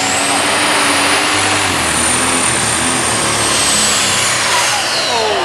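Diesel super stock pulling tractor at full power during a pull, its tires spinning at high speed. A high whine climbs in pitch, holds, then drops away near the end as the run winds down.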